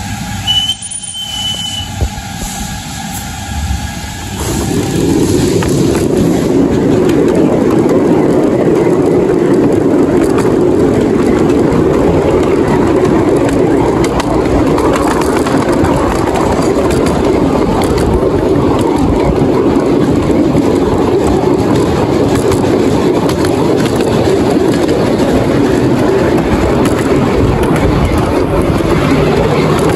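Narrow-gauge train in motion: a steady rumble of running carriages that rises about four seconds in and then holds.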